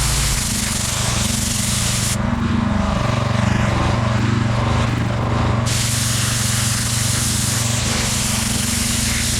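Pressure washer engine running steadily while high-pressure water sprays from the wand with a loud hiss. The spray cuts off about two seconds in and starts again about three and a half seconds later, with the engine running on between.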